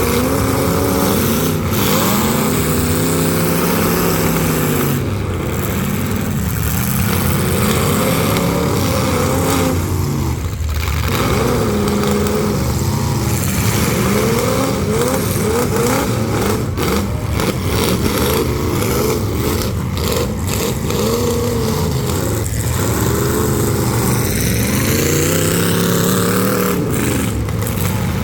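Several full-size demolition derby car engines revving up and down over one another, with a few sharp knocks from about the middle on.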